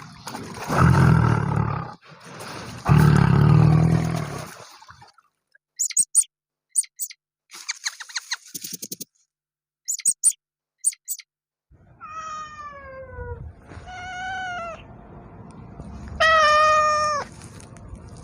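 A domestic cat meowing three times in the second half, each meow falling in pitch and the last the loudest. Before that come two loud, low, rough calls from a larger animal, then a string of short sharp clicks.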